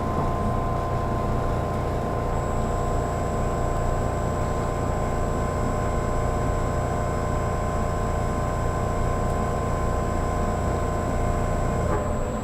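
Interior running noise of a 783 series electric train at speed: a steady low rumble from wheels and track, with several steady electrical whine tones on top. Near the end the whine tones cut out and the noise eases slightly.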